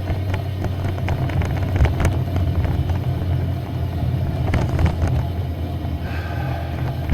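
Continuous low rumble and rattle of a pedal-powered ride over a rough road, with many small irregular clicks and knocks. The rider puts the rattling down to vibrating armrests or the DJI camera mount, not sure which.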